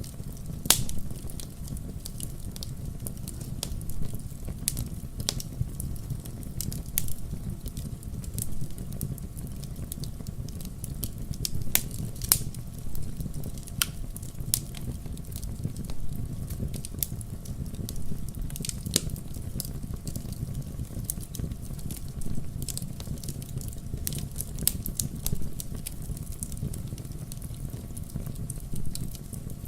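Wood fire burning in a fireplace: a steady low rumble of flames with irregular sharp crackles and pops, a louder pop about a second in.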